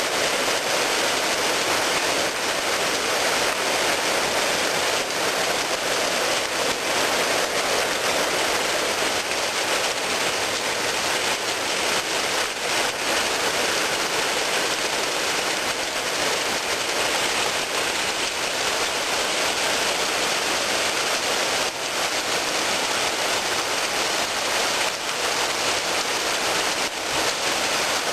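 Heavy rain pouring steadily, a dense even hiss of downpour hitting the ground and surfaces.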